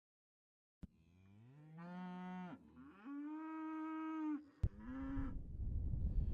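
Cattle mooing: three drawn-out calls one after another, the first rising in pitch before it levels off and the last one short. A steady rushing noise builds up near the end.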